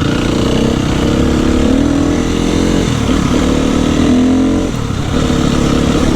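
250cc dirt bike engine pulling under throttle while being ridden. Its pitch rises, dips about three seconds in and again near five seconds, then climbs again.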